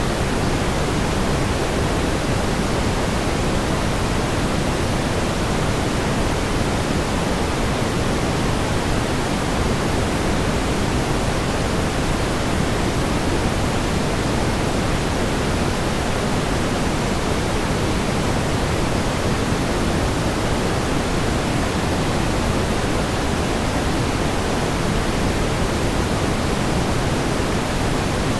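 Steady pink noise: an even hiss with more weight in the low end, unchanging throughout.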